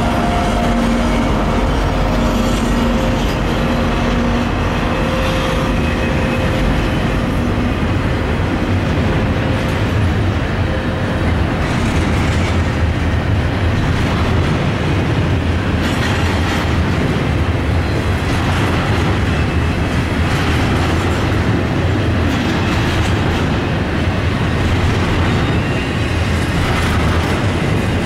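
Norfolk Southern intermodal freight train passing close by: double-stack container cars roll past with a steady rumble and clatter of steel wheels on rail. A droning hum from the locomotives fades out over the first few seconds as they pull away.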